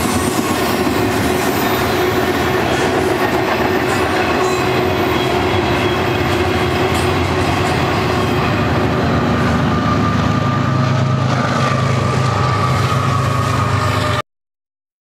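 A double-stack intermodal freight train rolling by, with a steady rumble and clatter of wheels on rail and a thin squealing tone over it. About ten seconds in, the low diesel hum of the BNSF GE ES44C4 locomotives at the rear of the train grows as they approach. The sound cuts off suddenly near the end.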